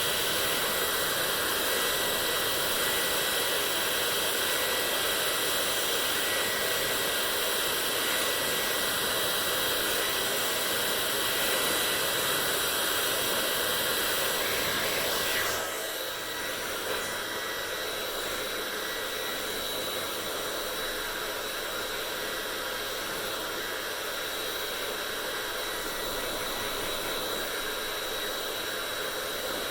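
Hair dryer running with a steady rush of air and a thin motor whine. About halfway through the sound changes abruptly, becoming slightly quieter with a different whine, then runs steadily again.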